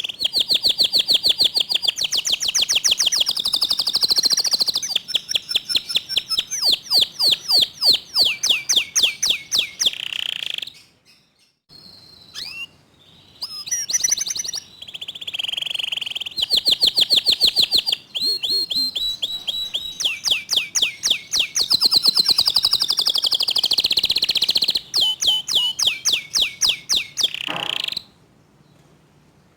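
Canary singing long phrases of fast, tightly packed rapid-fire trills, with a short break about eleven seconds in, and the song stopping shortly before the end.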